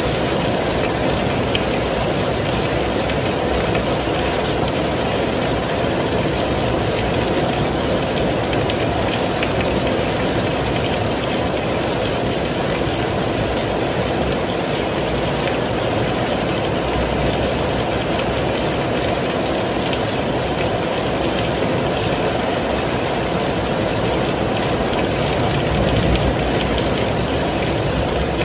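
Heavy rain falling in a steady, even downpour, with a dense low rush and no distinct drops standing out.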